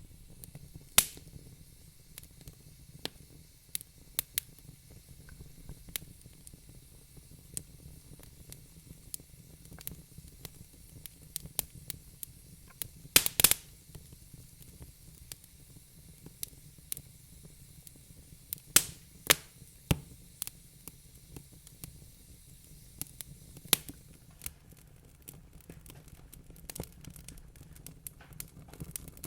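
Wood fire in a fireplace crackling, with irregular sharp pops, a loud flurry of them about halfway through, over a steady low rumble.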